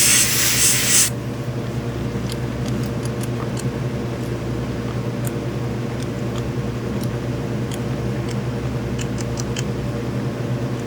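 Airbrush spraying with a steady hiss that cuts off about a second in, over the steady hum of its air compressor, which keeps running; a few faint small clicks of the airbrush being handled.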